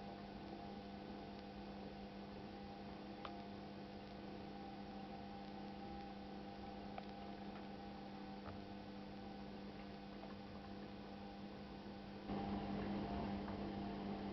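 Washing machine running with a faint, steady hum, a few light ticks, and a rise in level about twelve seconds in.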